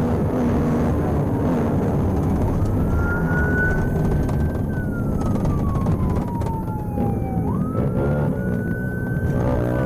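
Police car siren wailing, its pitch sweeping slowly up and falling back about twice, over the steady engine and road rumble of the pursuing patrol car.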